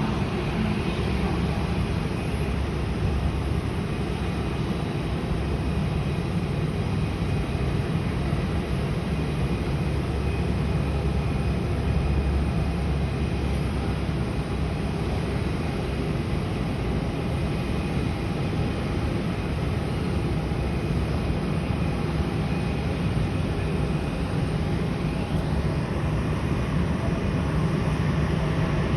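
Steady jet noise of a Boeing 777 airliner: an even low rumble of engines and airflow with a faint steady high whine, and a faint rising whine about 25 seconds in.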